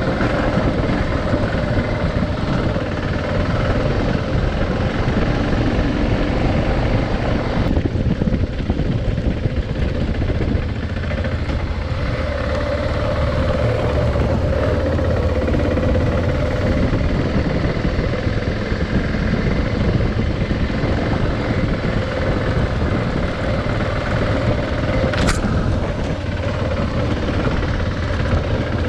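Adventure motorcycle under way, its engine running at a steady pitch with a heavy low rumble. A brief sharp tick near the end.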